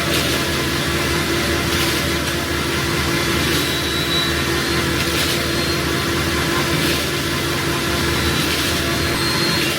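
Concrete mixer truck's diesel engine running steadily, with a constant hum and a faint click about every second and a half.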